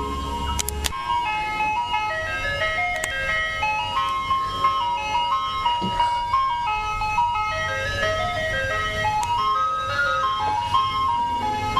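Ice cream truck jingle: a chiming melody of short stepping notes that runs and repeats. A low hum under it stops abruptly about a second in.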